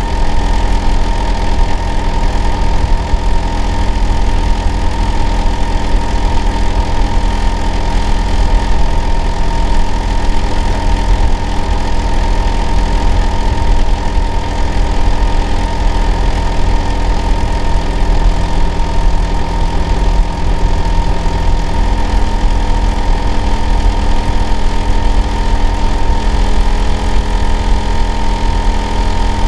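Hitachi air-conditioner outdoor unit running steadily: a loud, deep hum with a steady high whine on top. One of the low tones drops out about two-thirds of the way through.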